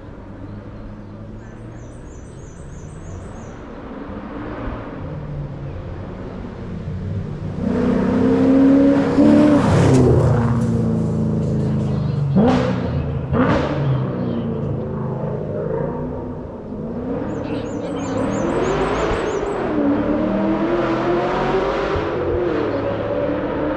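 Race car engine charging up a hillclimb course: it grows from a distant drone to a loud pass about a third of the way in, revs rise and drop sharply twice in quick succession at gear changes, then it revs on as it pulls away up the hill. A bird chirps briefly twice in the background.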